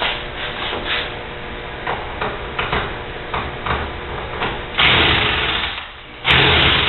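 Clicks and knocks of parts being handled, then a small power-tool motor running in two bursts of about a second each, the second ending suddenly.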